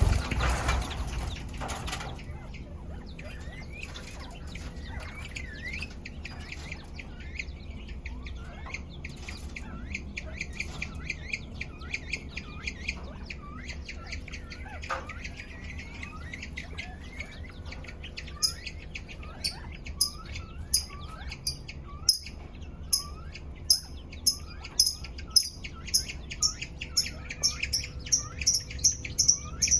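Aviary quail calling: many short rising chirps throughout, and from about two-thirds of the way in a sharp high-pitched call repeated faster and faster. A loud rustle is heard in the first two seconds.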